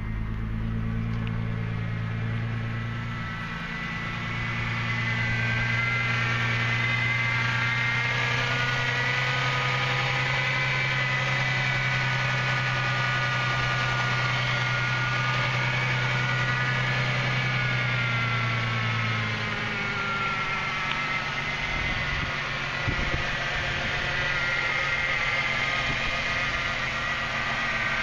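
A 1999 Ford Mustang's 3.8L V6 idling steadily, with a thin wavering whine from the engine bay above it. A low hum under the idle drops away about two-thirds of the way through.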